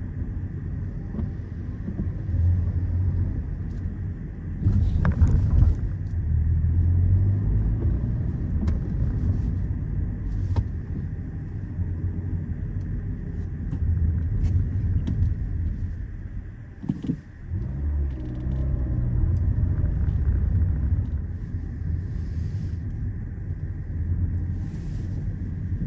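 Peugeot 207 driving on wet roads, heard from inside the cabin: a steady low engine and road rumble that dips briefly about two-thirds of the way through, then picks up again.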